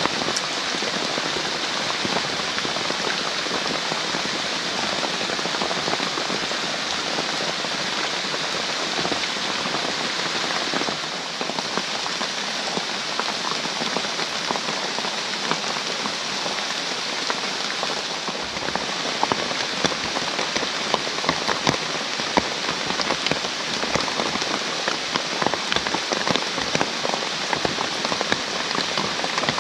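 Heavy rain pouring steadily in a forest during a storm. From about two-thirds of the way in, sharper individual drop hits stand out close by.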